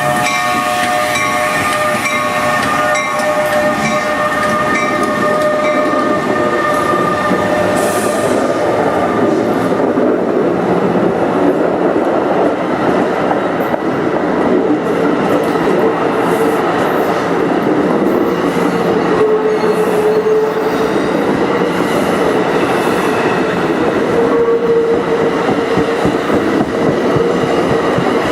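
NJ Transit commuter train at the station, its horn sounding a chord for the first several seconds, then the train rolling by with wheels clicking over the rail joints and a steady whine.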